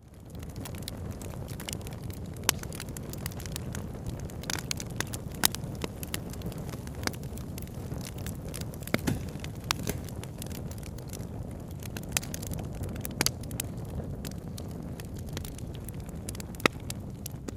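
Campfire crackling, with sharp pops scattered through it, over a steady low rush of a river. The sound drops out for an instant at the very start, then comes back.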